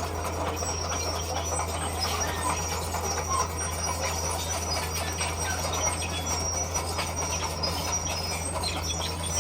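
Crawler bulldozer working: its diesel engine running steadily as a low drone, with the clatter of steel tracks and faint high squeaks from the track links.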